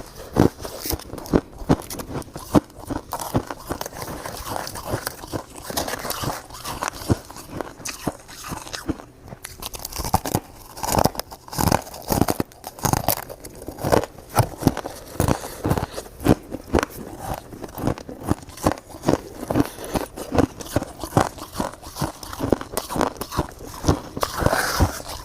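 Close-up crunching and chewing of frozen shaved ice: a rapid, continuous run of crisp bites and crackles.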